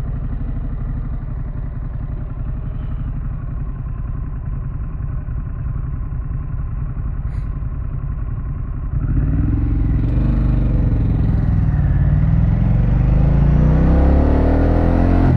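2024 Harley-Davidson Pan America's Revolution Max 1250 V-twin running steadily at low speed. About nine seconds in it gets louder and accelerates, its pitch rising.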